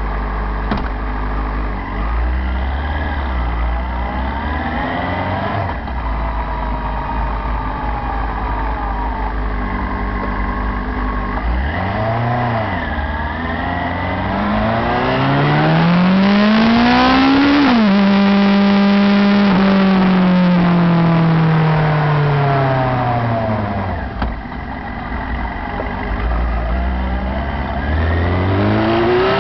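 Motorcycle engine heard from a handlebar-mounted camera, running low and unsteady at first, then revving up, dropping in pitch as it shifts up a gear, holding steady and winding down as it slows, before revving up again near the end.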